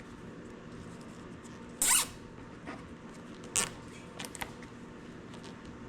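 Plastic zip ties being pulled tight, each giving a short ratcheting zip, about 2 seconds in and again about 3.5 seconds in, with small clicks of handling between.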